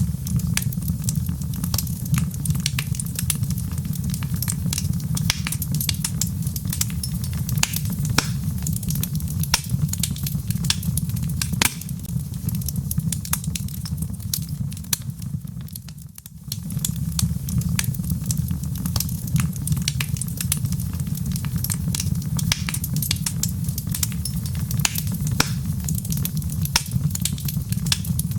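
Log fire in a fireplace crackling, with many sharp pops and snaps over a steady low rumble. The sound drops away briefly a little past halfway, then carries on.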